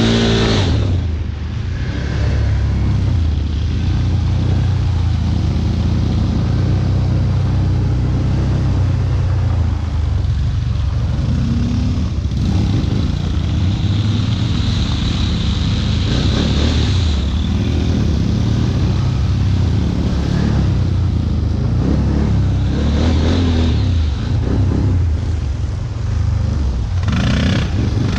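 ATV (quad bike) engine running under load, its revs rising and falling.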